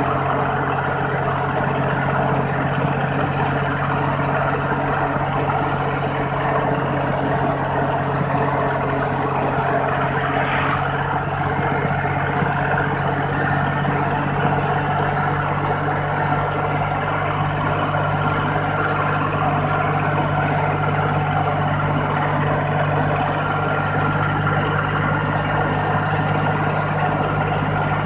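Iseki 40 hp tractor's diesel engine running steadily through an aftermarket "fuel-saving" exhaust pipe, heard from on board the moving tractor.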